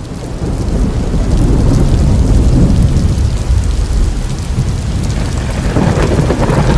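Recording of a thunderstorm: heavy rain with rumbling thunder, swelling up over the first second and then holding steady.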